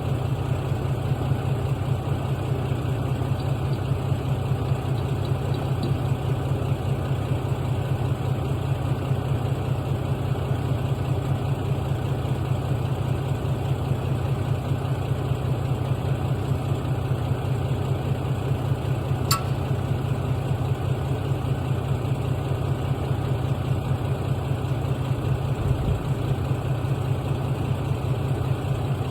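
Log truck's diesel engine idling steadily, with a single sharp click about two-thirds of the way through.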